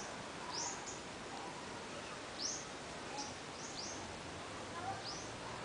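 A bird giving short, high chirps, each dropping in pitch, about seven of them scattered over a few seconds, over a steady background hiss.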